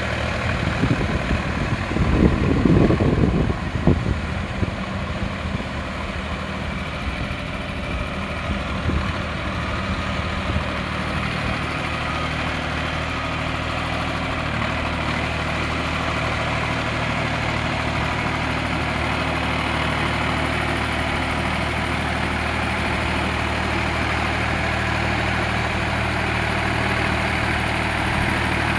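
Sonalika RX 47 4WD tractor's diesel engine running steadily, with a louder, rougher low rumble for a couple of seconds near the start.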